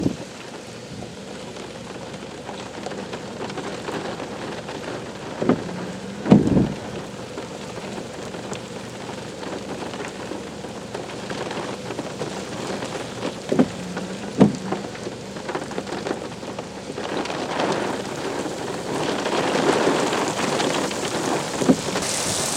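Thunderstorm rain falling steadily, growing louder in the last few seconds. A handful of short, low thumps break through, the strongest about six seconds in.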